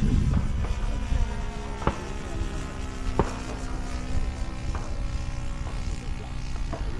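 Radio-controlled model airplane's motor and propeller running with a steady drone, under heavy wind noise on the microphone, with a couple of sharp knocks about two and three seconds in.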